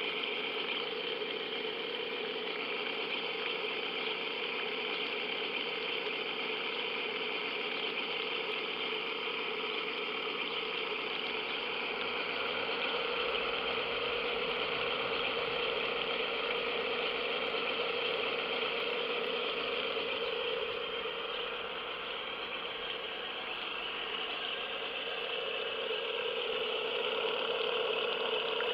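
Simulated wet exhaust on an electric R/C model boat: cooling water mixed with injected air sputtering steadily from the exhaust outlet, imitating a running marine engine. It holds steady, dipping slightly in level about three-quarters of the way through.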